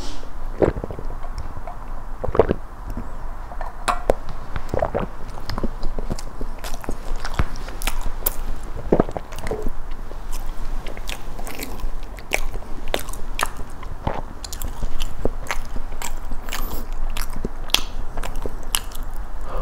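Close-miked eating sounds: a sip through a straw, then biting and chewing with many small crisp crunches from the cookie crust of a blueberry cookie cheesecake, the crunches coming thicker in the second half.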